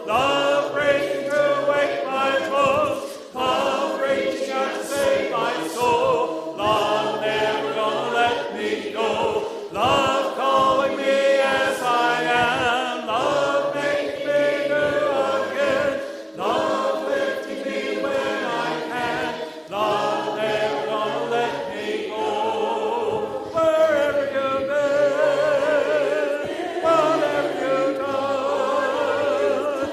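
A group of voices singing a slow worship song, holding long, wavering notes over steady low accompanying notes.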